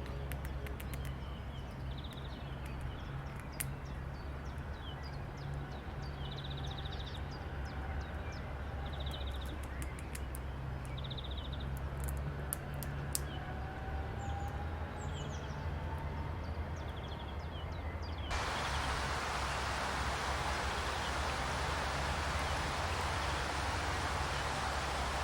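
Birds calling outdoors with short repeated chirps and trills over a steady low rumble; about 18 seconds in the sound cuts abruptly to a loud, steady hiss.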